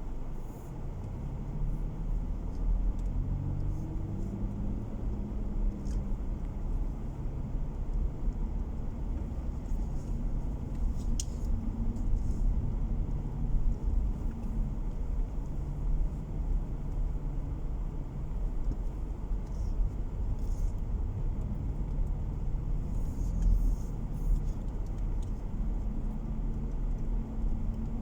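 Car driving, heard from inside the cabin: a steady low rumble of road and tyre noise with the engine hum, whose pitch rises and falls a few times as the speed changes.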